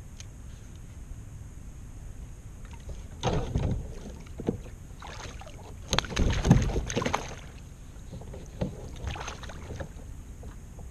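Water sloshing and splashing around a kayak, with knocks against the hull, in a few irregular bursts; the loudest comes about six seconds in.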